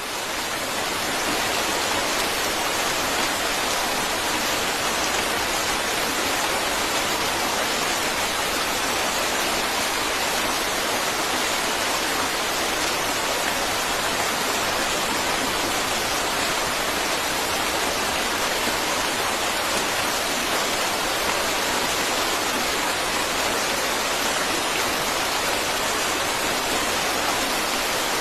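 Steady, even rushing of falling water, swelling up over the first second or so and then holding level.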